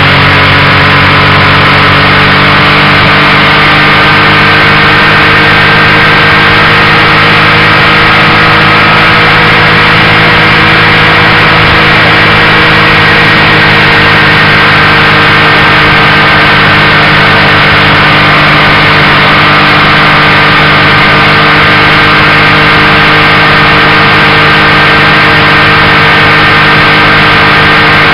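Motorcycle engine running at a steady highway cruise, a continuous drone whose pitch drifts only slightly, over a constant rush of wind and road noise.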